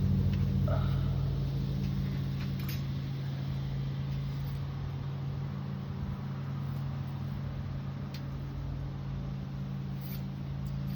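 A steady low mechanical hum with a few faint clicks. The hum eases slightly over the first few seconds.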